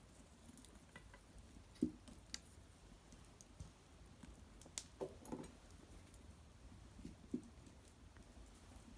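Small wood fire crackling faintly, with a few sharp pops and light knocks scattered through, the loudest about two seconds in, around the middle and near the end.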